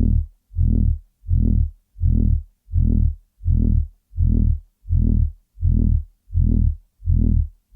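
A loud, low, buzzing throb that pulses on and off in a steady rhythm, about three pulses every two seconds, with silence between each pulse.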